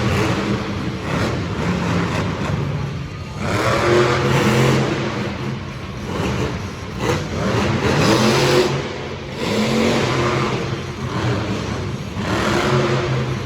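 Show vehicles' engines revving hard in repeated surges about every four seconds, the pitch rising and falling with each burst of throttle.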